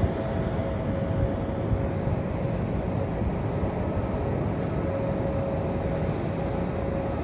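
Steady rumble of jet aircraft engines at an airport, with a faint whine that fades out and returns near the end.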